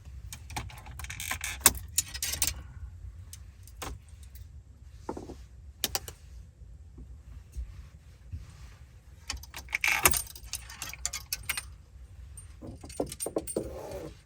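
Small hard objects clinking and rattling as gear is handled, in two clattering spells (near the start and about two-thirds through) with scattered single clicks between, over a steady low rumble.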